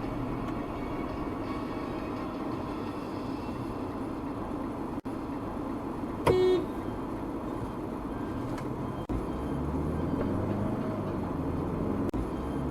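Steady road and engine noise of a car being driven, with one short car-horn beep about six seconds in.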